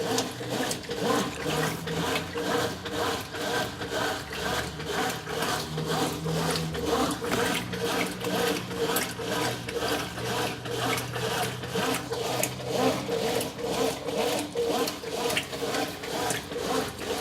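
Brastemp 9 kg top-load washing machine agitating a full load in water: a rhythmic churning and swishing at about three strokes a second over a steady motor hum.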